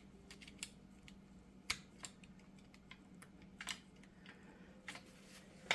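Scattered light metallic clicks and taps, about six spread over a few seconds, from handling the axle shaft's universal joint while checking a retaining clip that is not seated.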